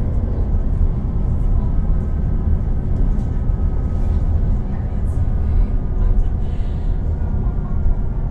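Volvo B12BLE bus's 12-litre six-cylinder diesel and Voith automatic gearbox running under way, heard on board: a steady deep rumble with faint steady whines above it.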